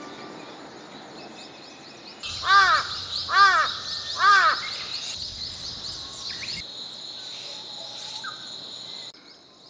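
A bird gives three harsh, caw-like calls, each rising then falling in pitch, about a second apart, a few seconds in. Fast high-pitched insect chirping and trilling runs behind them.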